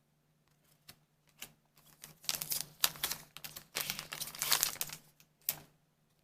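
Trading cards and a foil booster pack being handled: a run of small clicks and rustles, busiest between about two and five seconds in, as the cards are set down and the next pack is taken up.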